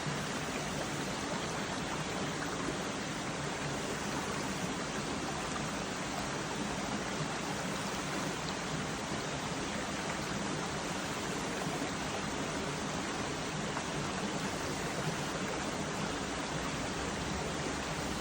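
Mountain valley stream flowing over rocks: a steady, even rush of running water with no change or break.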